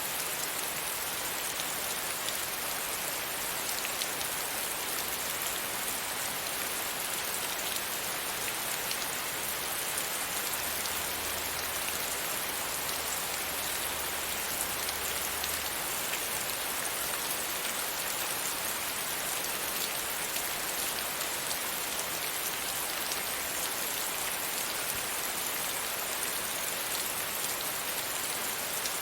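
Steady rain pattering against a window pane, with fine scattered drop taps over an even hiss.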